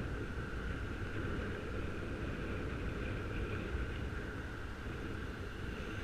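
Wind rushing and buffeting over a helmet-mounted camera microphone while riding a bicycle, a steady low rumble with a steady high-pitched hum over it.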